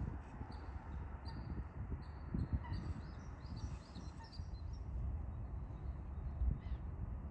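A small songbird calling in quick series of short, high notes for the first four seconds or so, over a steady low rumble of wind on the microphone with a couple of dull thumps.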